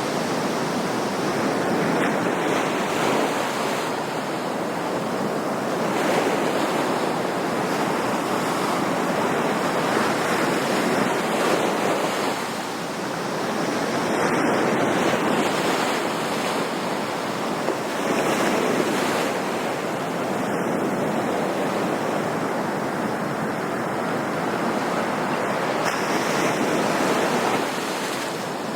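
Ocean surf: a continuous rush of breaking waves that swells and eases every few seconds.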